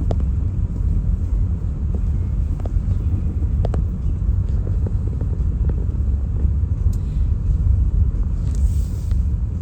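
Steady low rumble of a car's road and engine noise heard from inside the moving car, with a few faint clicks.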